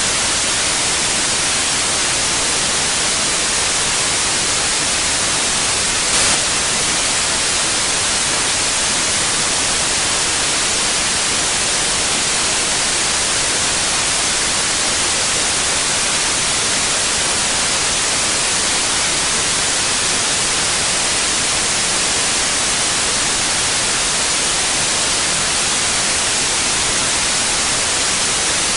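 Continuous white noise: an even, steady hiss, brightest in the treble, with a brief slight jump in level about six seconds in.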